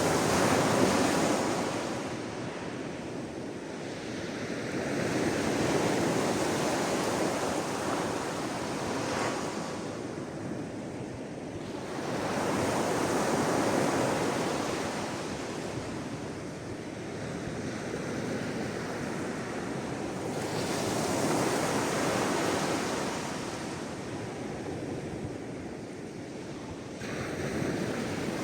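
Sea waves surging and washing onto the shore in slow swells, each building and fading over several seconds, about four times.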